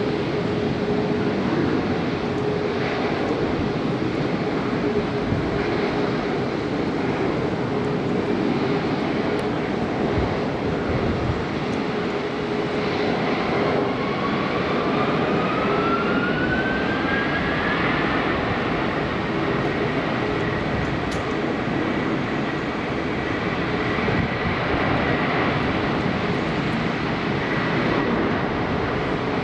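Jet engines of a Boeing 747-400 running with a steady, loud rush and a low held tone. About halfway through, a whine rises in pitch, then holds steady as the engines spool up.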